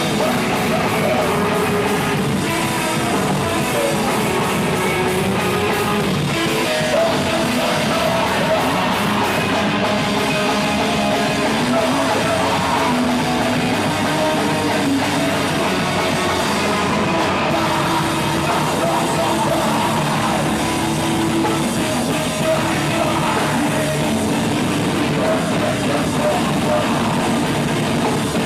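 A live rock band playing a song loudly and without a break, with drums, instruments and singing.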